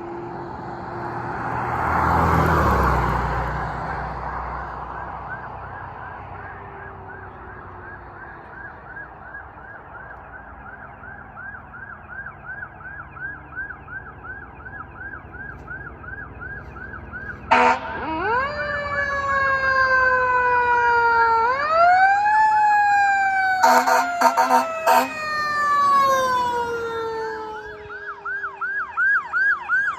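Fire apparatus running emergency: a vehicle passes about two seconds in while an electronic siren yelps rapidly. Past the middle, a wailing siren winds up twice and slowly falls, broken by several short air horn blasts, before the fast yelp returns near the end.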